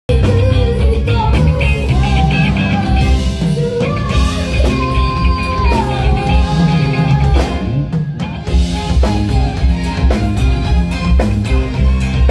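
A rock band playing live and loud through a PA system during a sound check: drum kit and bass pounding underneath, with a lead melody of long held, wavering notes on top.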